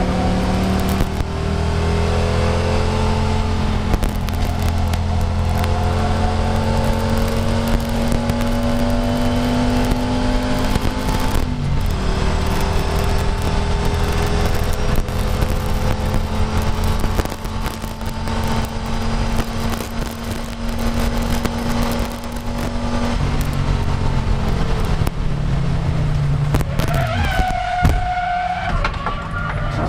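Audi race car's engine heard from inside the stripped cabin, pulling under load with its pitch slowly rising. The pitch drops at a gear change about twelve seconds in, and the engine eases off about twenty-three seconds in. A higher steady whine comes in near the end.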